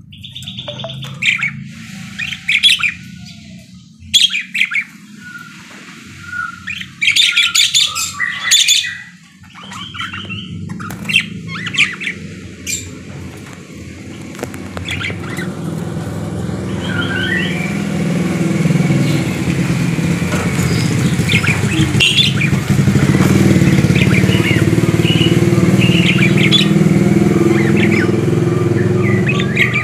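Budgerigar chirping and squawking in short sharp calls. About halfway through, a steady low rumble like an engine builds up and grows louder than the bird, which keeps chirping over it.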